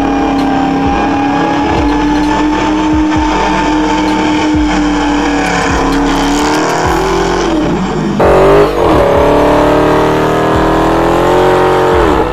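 Dodge Charger V8 held at high revs during burnouts, with the rear tyres spinning and squealing. After an abrupt cut about eight seconds in, a louder engine note climbs in revs and then drops off near the end.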